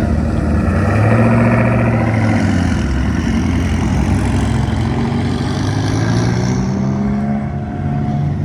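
Twin-turbocharged sports car engines, a Mustang and a McLaren, revving and accelerating hard. The engine note rises in pitch about a second in, then climbs again in a long rise later on.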